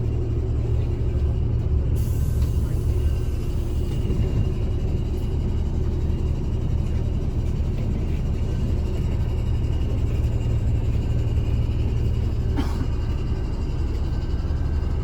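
Mercedes-Benz O307 city bus heard from inside the passenger cabin while under way: a steady low diesel engine and road rumble. There is a brief hiss about two seconds in and a sharp click near the end.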